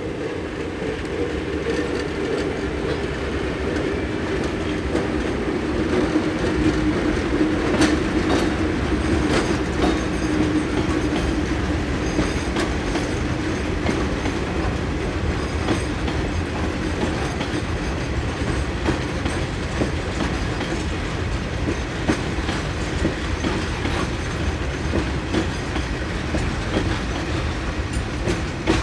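Train running past on the track, its wheels clicking over rail joints above a steady rumbling drone.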